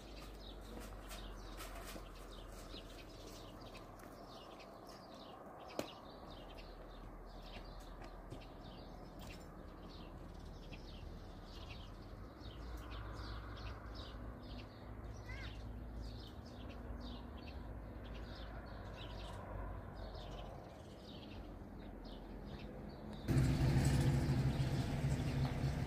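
Birds chirping in rapid short calls over a faint background. Near the end a louder, low noise comes in suddenly and keeps going.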